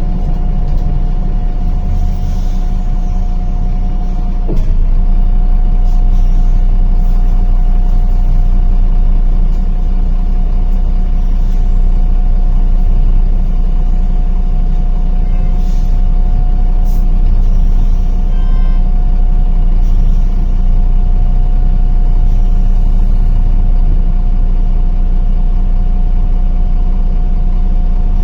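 MAZ-105 city bus heard from inside the cabin while riding: a steady low engine and road hum with a thin constant whine over it, getting a little louder about four and a half seconds in.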